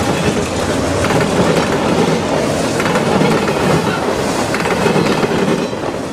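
A train running past: a steady, loud rumble with the clatter of its wheels on the rail.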